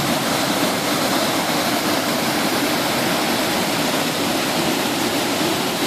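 Steady rush of fast-flowing water in a stream swollen by monsoon rain.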